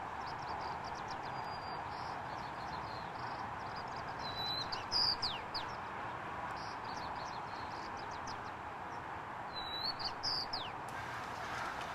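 Small birds calling with many short, high chirps, with a few quick down-slurred notes about five seconds in and again near ten seconds, over a steady background hiss.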